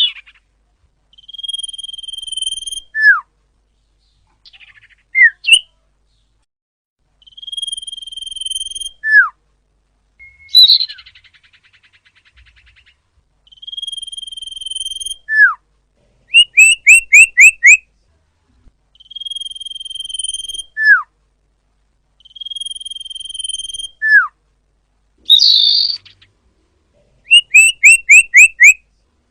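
Common iora (cipoh) calls, loud and close: a drawn-out level whistle followed by a sharp downward-slurred note, repeated every few seconds. Twice a quick run of five or six rising notes comes in, and twice a short harsh rasp.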